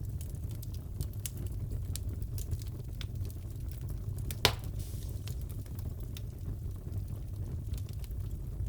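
Wood fire crackling in a fireplace: a steady low rumble with scattered sharp crackles and one loud pop about halfway through.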